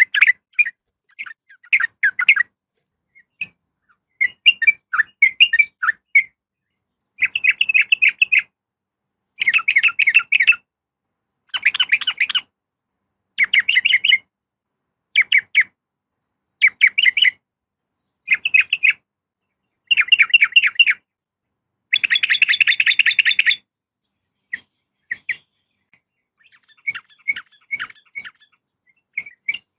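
Female yellow-vented bulbul (trucukan) giving its call to attract a male: bursts of fast chattering notes, each about a second long and repeated every couple of seconds, with one longer burst past two-thirds of the way and sparser, fainter calls near the end.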